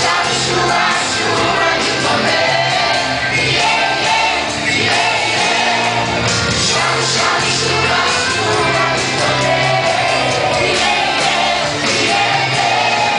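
Children's choir singing a Portuguese gospel hymn together, over a band accompaniment with a steady bass and beat.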